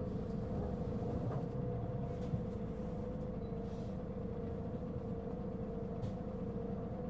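Mitsubishi Fuso Aerostar LKG-MP37FK city bus heard from inside as it runs: a low engine rumble under a steady, prominent whine. The whine is the considerable abnormal noise this bus was known for.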